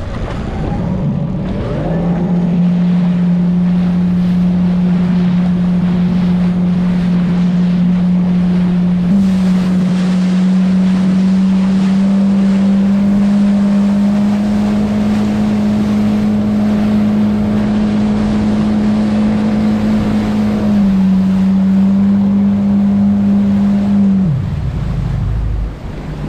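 Motorboat engine running steadily under way. Its pitch steps up a little about a third of the way in, eases back later, then drops away near the end as the throttle comes off. Wind and water noise run underneath.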